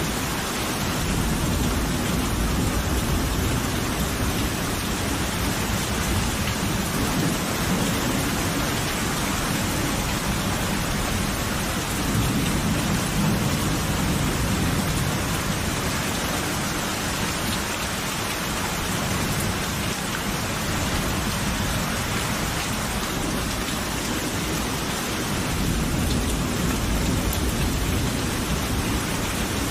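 Steady heavy rain falling, with deep rolling thunder swelling and fading several times underneath.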